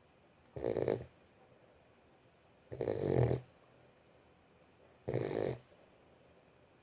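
Boxer puppy snoring in its sleep: three short snores about two seconds apart, one with each breath.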